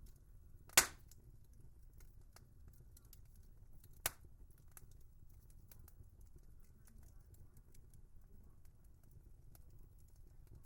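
Wood fire crackling: scattered small ticks over a low steady rumble, with one loud sharp pop about a second in and a smaller pop about four seconds in.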